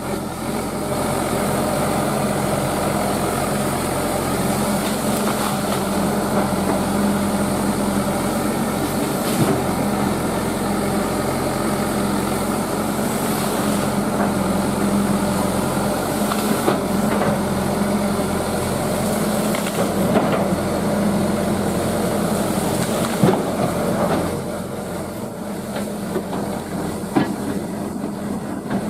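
Hydraulic excavator's diesel engine running steadily, with a few sharp knocks or cracks scattered through the work. The engine eases off a little near the end.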